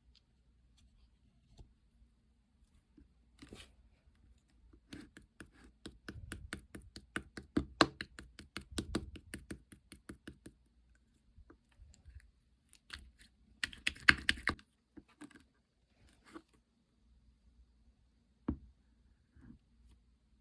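Slime being squished and pressed by hand, making rapid trains of sharp clicking pops, densest from about five to ten seconds in and again briefly around fourteen seconds, with single clicks between.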